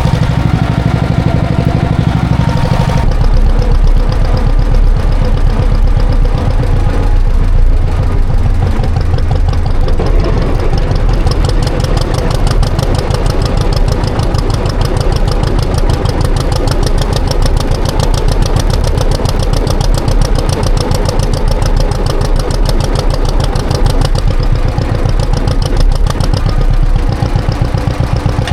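John Deere 530 two-cylinder tractor engine running under way, with a dense, steady beat of exhaust pulses. About three seconds in the sound changes as the engine picks up.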